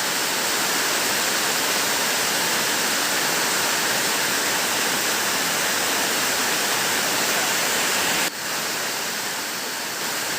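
Steady, dense hiss of heavy rain falling. Its level drops suddenly about eight seconds in, then carries on a little quieter.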